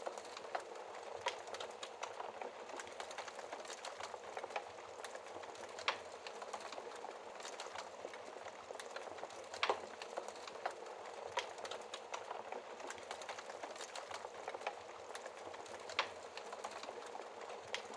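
Wood fire crackling steadily in a fireplace, with a few louder, sharper pops spread through.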